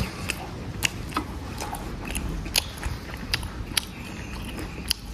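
A person chewing food close to the microphone, with sharp, irregular crunching clicks over a low, steady rumble.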